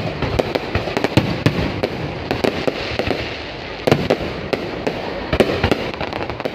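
Fireworks going off in a dense, irregular stream of bangs and crackles. A few louder reports stand out about four seconds in and again a little later.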